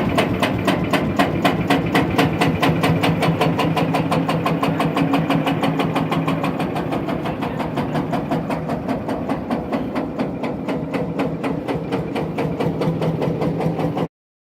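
An engine idling steadily with an even, rapid firing beat.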